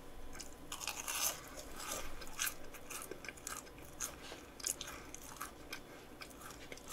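Crisp, irregular crunching as a bite of a breaded, fried croquette is chewed, with several sharp crunches of the crust each second.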